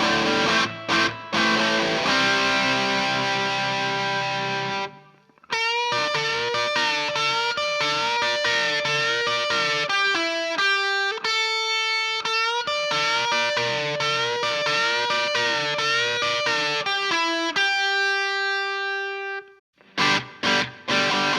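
Electric guitar played through a Boss SD-1 overdrive, reverb and a Fender Bassman amp, lightly overdriven. Choppy strummed chords and a ringing chord are followed, after a short break about five seconds in, by a lead line with string bends that ends on a held note. Choppy chords start again after a brief gap near the end.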